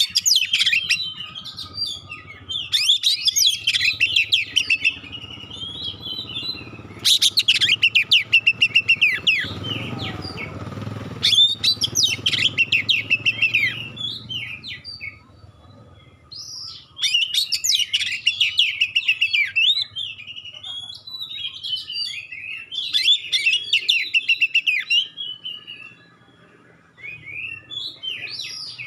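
Oriental magpie-robin (kacer) singing in a run of loud, varied phrases, broken by short pauses. Several phrases are rapid, sharp trilled bursts ("tembakan"), the densest about seven seconds in.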